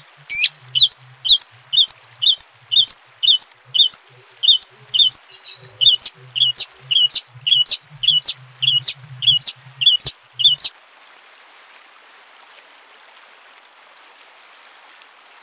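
A songbird calling a long run of short, sharp, high chip notes, about two a second, that stop about eleven seconds in, leaving a faint steady hiss.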